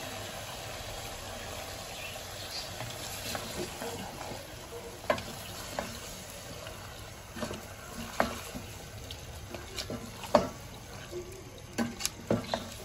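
Mutton pieces, onion and tomato paste sizzling in an aluminium pressure-cooker pot as a wooden spoon stirs them, frying in the meat's own juices. Scattered knocks and scrapes of the spoon against the pot sound through the steady sizzle, more often near the end.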